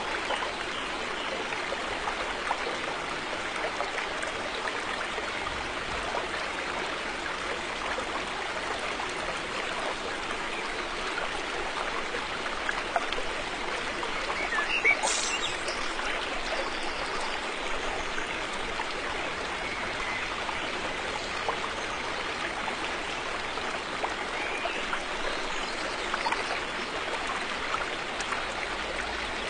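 River water flowing steadily, an even rushing with small trickles, and one brief louder burst about halfway through.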